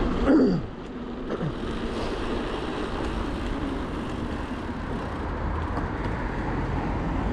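Steady road traffic and wind rumble heard from a moving bicycle, with a short, loud sound falling in pitch just after the start and a fainter one about a second later.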